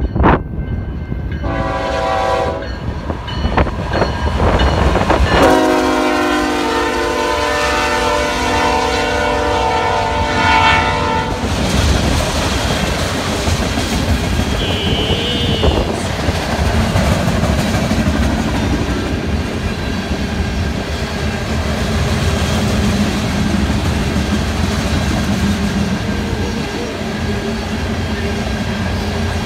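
Freight train's diesel locomotives sounding the horn: a short blast about two seconds in, then a long blast from about five to eleven seconds as the engines pass. After that, a string of hopper cars rolls by with steady clickety-clack of wheels over the rails.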